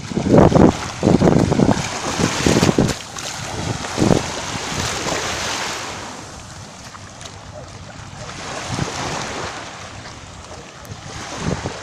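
Small Black Sea waves washing onto a sandy beach, the wash swelling and then fading away, with wind buffeting the microphone in gusts at the start, about four seconds in, and again near the end.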